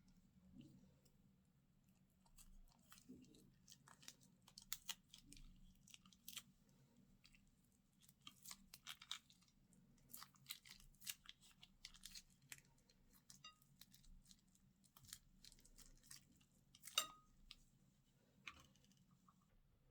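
Slime being mixed and squished by hand: quiet, irregular crackles, pops and crunches, with a sharper pop about 17 seconds in.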